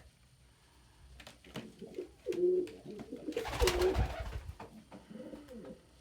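Domestic pigeons cooing in a series of low, throaty calls. About halfway through there is a brief, loud rustle, the loudest sound.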